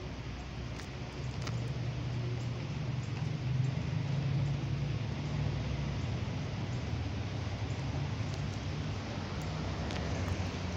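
Light rain falling, an even hiss with scattered drops ticking, over a steady low rumble that swells about a second in.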